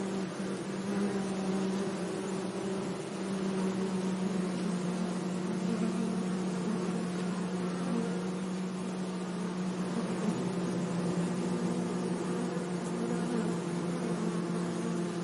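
Bees buzzing: a steady low drone with higher overtones, holding its pitch, over a faint hiss.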